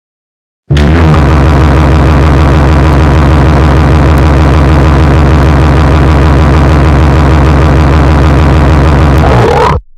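A very loud, harsh droning buzz at full volume, a deliberately ear-splitting sound effect. It starts abruptly about a second in with a fast, even pulsing and cuts off suddenly just before the end.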